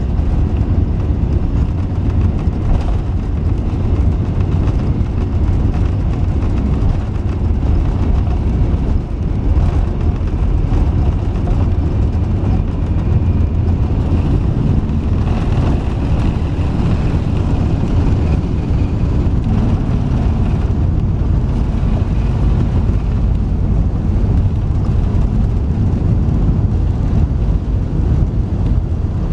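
Steady low rumble of an Airbus A380's engines and airflow heard from inside the cabin, with no change in level.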